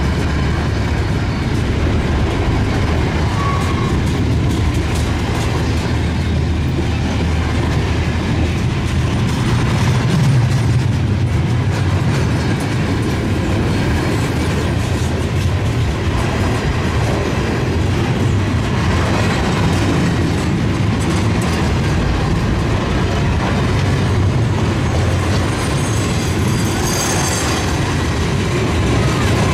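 Loaded container wagons of a freight train rolling past, a steady loud rumble and rattle of wheels on the rails. A brief high wheel squeal comes in near the end.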